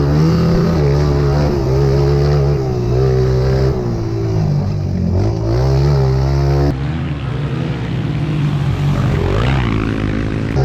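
Pit bike engine revving, its pitch rising and falling over and over as the rider works the throttle and gears. The sound changes abruptly about two-thirds of the way through.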